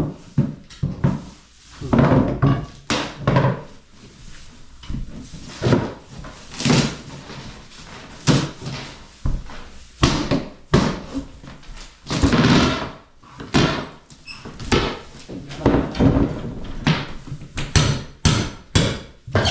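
Irregular knocks, thumps and bangs of home repair work, struck one after another at uneven intervals throughout.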